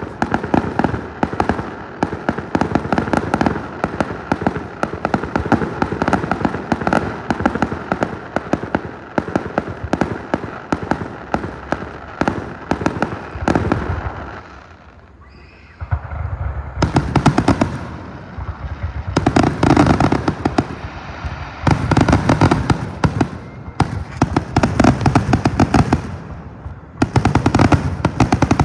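Fireworks going off in rapid, dense crackling and popping. It drops off briefly about halfway through, then comes back in louder clusters of bangs.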